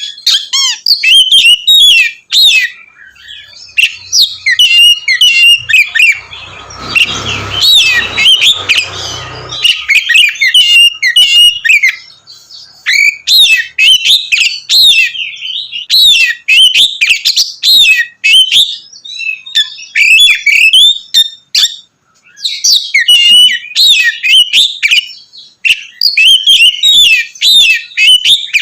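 Oriental magpie-robin (kacer) singing loudly in long runs of rapid, varied whistles, trills and chirps, broken by short pauses. A burst of noise sits under the song about seven to nine seconds in.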